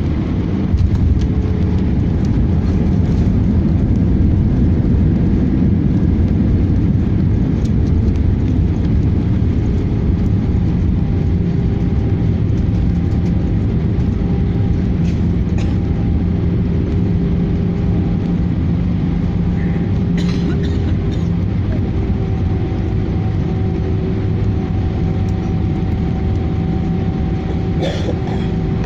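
Airbus A318 cabin noise: the jet engines and airflow running as a steady low rumble with a few faint steady tones, heard from inside the cabin. A couple of faint clicks near the end.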